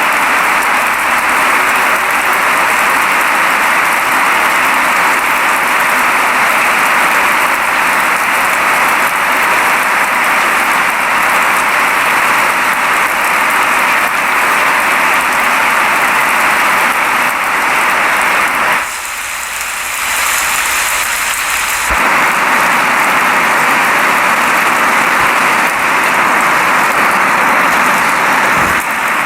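Steady rain falling, an even hiss. About two-thirds of the way through it dips a little and turns thinner and hissier for about three seconds, then returns to the same steady sound.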